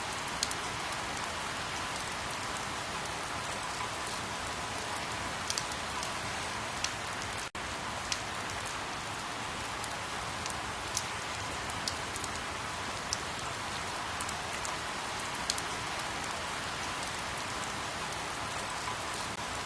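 Steady rain, an even hiss with scattered sharp drop ticks, briefly cut by a momentary gap about seven and a half seconds in.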